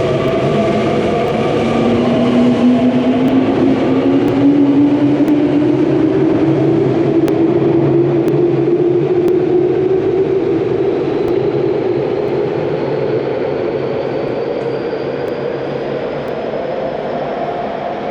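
Electric commuter train accelerating, its traction motors giving a whine that climbs steadily in pitch, with a fainter high whine rising over the last few seconds, over the running rumble of the train.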